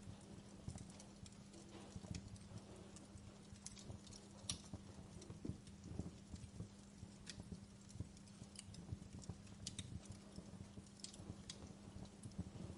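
Wood fire crackling in a fireplace: irregular sharp snaps and pops of burning logs, some louder than others, over a steady low hum.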